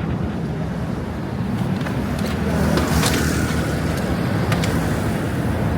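Car being driven, heard from inside the cabin: a steady low rumble of engine and tyre road noise that grows a little louder about two and a half seconds in.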